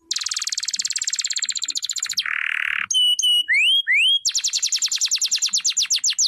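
Domestic canary singing. It opens with a very fast rolling trill, then a short harsh buzz, then a few whistled and upslurred notes, and near the middle it settles into a slower trill of repeated falling notes.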